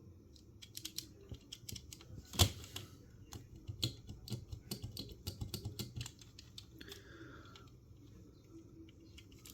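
Light clicks and taps of a small diecast model truck being handled, with one louder knock about two and a half seconds in; the clicking thins out after about six seconds.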